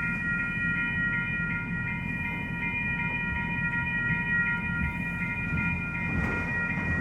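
Norfolk Southern freight train rolling past with a continuous low rumble, with several steady high-pitched tones above it.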